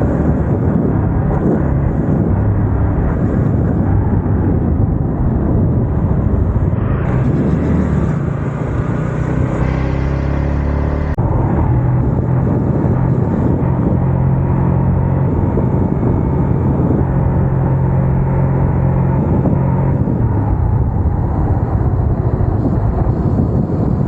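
Yamaha MT-15's single-cylinder engine and exhaust running under way, with wind on the microphone. The engine note dips and changes about a third of the way through, as when the rider eases off or shifts gear, then runs steadily again.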